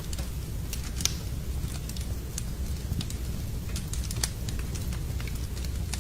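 Wood fire burning in a fireplace: irregular sharp crackles and pops over a steady low rumble, with the loudest pops about a second in and about four seconds in.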